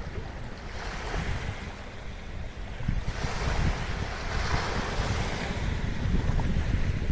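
Small waves washing onto the shore of a sheltered bay, with a swell of surf about three seconds in. Wind buffets the microphone with a low rumble throughout.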